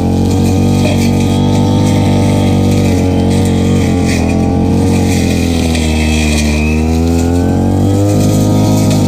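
Stihl FR3001 backpack brush cutter's two-stroke engine running at high speed. Its pitch sags and then climbs back between about five and seven and a half seconds in.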